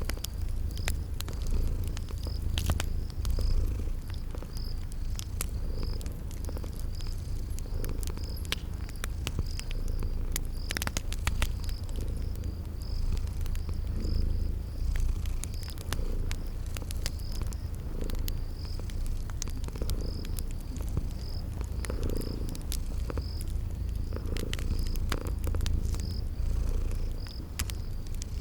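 Domestic cat purring steadily in a low rumble, with scattered sharp pops of a crackling wood fire and a cricket chirping at an even, regular pace.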